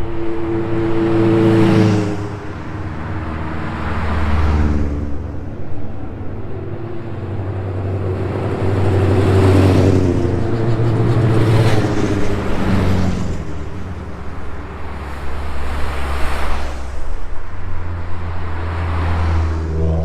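Race cars at a quarter-mile sprint accelerating hard past one after another, several passes that each swell and fade, with wind buffeting the microphone.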